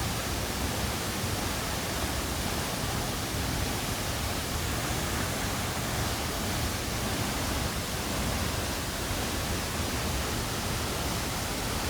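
Nungnung waterfall, a large waterfall heard up close: a steady rushing noise of falling water that does not change.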